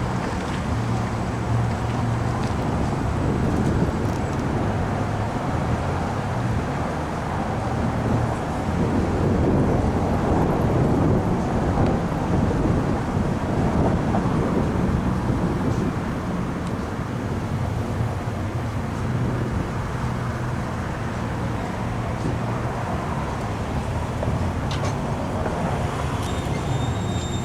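Steady vehicle rumble and road noise, swelling a little about a third of the way through.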